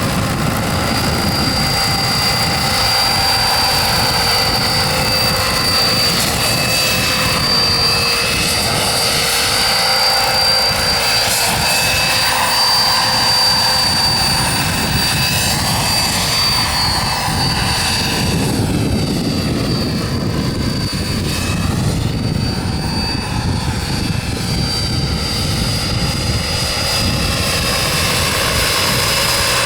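Wren twin-shaft gas turbine of a small radio-controlled turbine helicopter running steadily: a constant high whine over a loud rushing noise. Around the middle the sound takes on a sweeping, swirling quality, then settles again.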